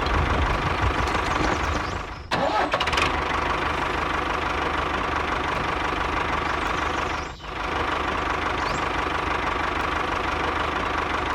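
Small engine of a DIY mini tractor running steadily, with a knocking beat. It dips out briefly twice, about two seconds in and again past seven seconds.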